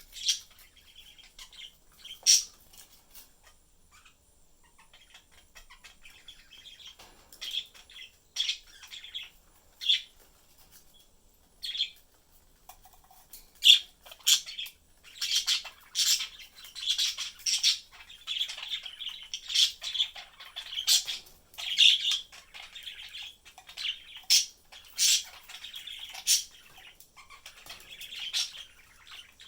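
Pet budgerigars chirping and chattering, with sharp short chirps and squawks; the calls come sparsely at first and grow busier and more continuous about halfway through.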